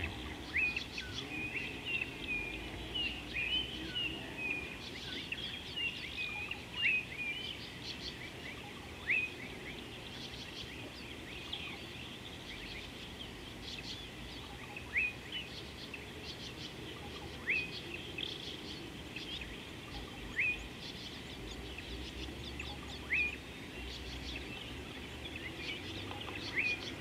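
Wild birds calling: a busy chorus of short chirps for the first several seconds, then one bird repeating a single short, sharp call every few seconds, over a faint steady outdoor background hum.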